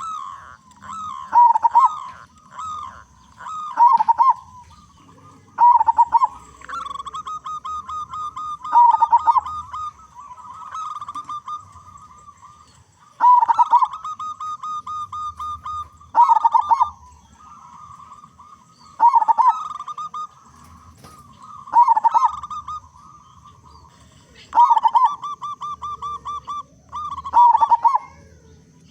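Zebra dove (perkutut) cooing: loud short coo notes every few seconds, each phrase running into a rapid rolling trill, repeated steadily throughout.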